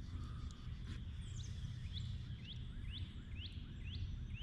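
A bird calling a series of short rising notes, about two a second, starting about a second in, over a steady low rumble.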